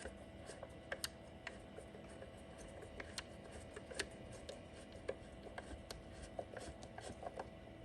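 Light, irregular clicks and taps from a screwdriver and hands working the boiler drain valves of a Breville BES990 espresso machine, over a faint steady hum.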